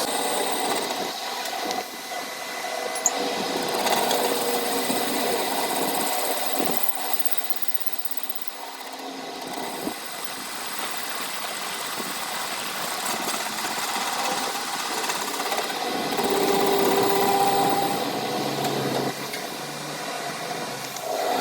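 A small machine running steadily, its loudness rising and falling.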